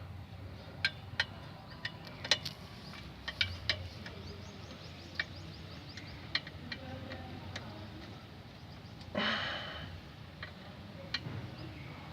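Irregular metal clicks and clinks of a hand wrench on the clutch pressure-plate bolts as they are tightened evenly onto the flywheel, with a brief louder rasping sound about nine seconds in.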